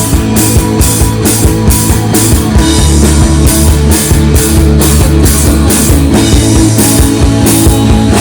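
A rock band playing an instrumental passage with no singing: sustained guitar and bass chords over drums, with a cymbal struck about two and a half times a second.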